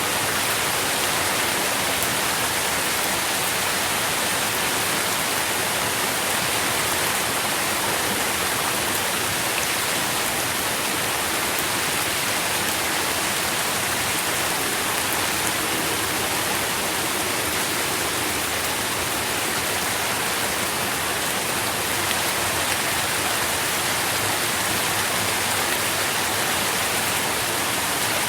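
Steady rain falling, heard as an even, unbroken hiss with no distinct drops standing out.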